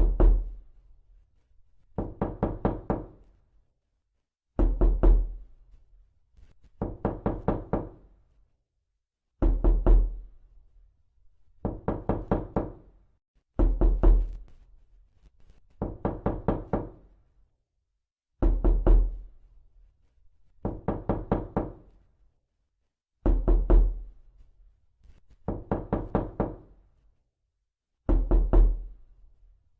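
Repeated knocking, in bursts of four or five quick knocks about every two seconds; every other burst has a heavier, deeper thud.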